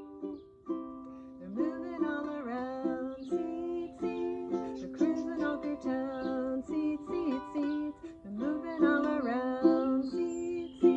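Ukulele playing a song, with a voice singing over it in places.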